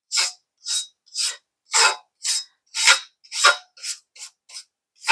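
Hand wire brush scraping a metal part in short back-and-forth strokes, about two a second and a little quicker near the end, knocking the crusty rust and scale off before painting.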